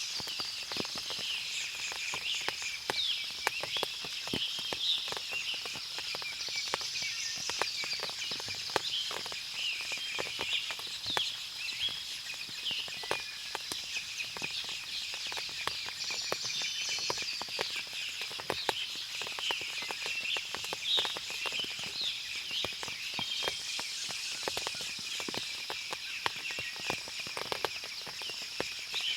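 Forest ambience after rain: many birds chirping over a steady high insect drone, with scattered sharp ticks throughout.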